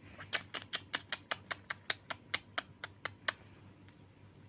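A quick run of about fifteen sharp smacking kisses, roughly five a second, stopping about three seconds in.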